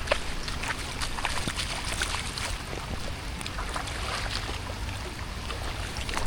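Rain with many scattered sharp drips and splashes, over a low steady rumble of wind on the microphone.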